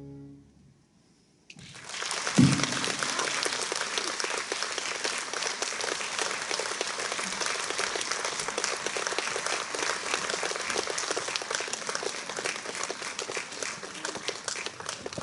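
The final held chord of a wind orchestra fades out, and after about a second of near silence an audience breaks into steady applause. A single low thump sounds just after the clapping starts.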